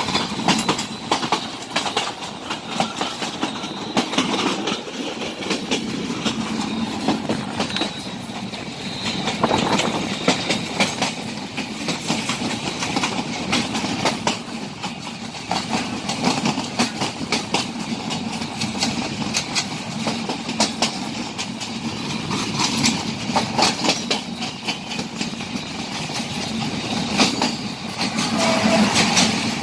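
Steel wheels of a moving passenger train clattering over the rails, heard through an open coach window, a continuous run of irregular clicks over a steady rumble. Near the end it grows louder as a diesel locomotive and its train go by close alongside on the next track.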